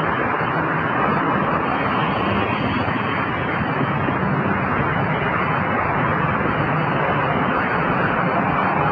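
Steady road traffic noise, an even rushing with a faint low hum underneath, with no distinct impacts or events.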